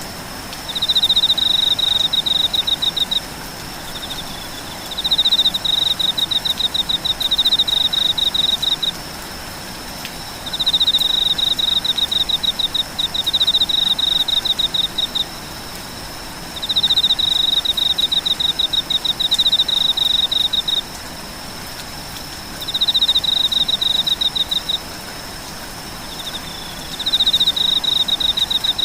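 Insects calling: a fast pulsed high-pitched trill in bouts of two to six seconds, starting up again every couple of seconds, over a steady high-pitched insect drone and a faint even hiss.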